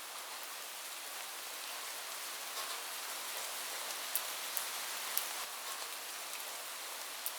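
Steady rain falling on a roof, an even hiss with a few separate sharper drop hits.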